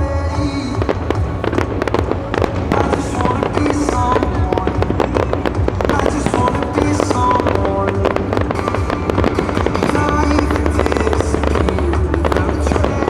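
Fireworks show: many shells bursting and crackling in quick succession over loud music with a steady bass line.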